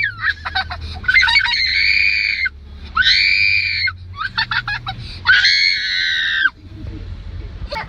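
Three long, high-pitched screams of about a second each, with quick clicking sounds between them.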